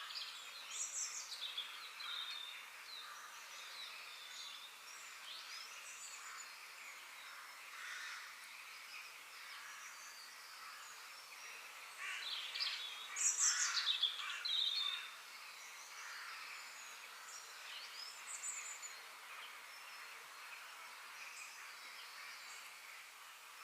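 Several wild birds chirping and singing in short sweeping calls over a steady outdoor hiss, with a louder, busier run of calls about halfway through.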